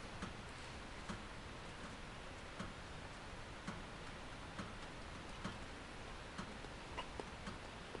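Wood-burning stove ticking and crackling: sharp clicks about once a second, not quite evenly spaced, over a steady low hiss.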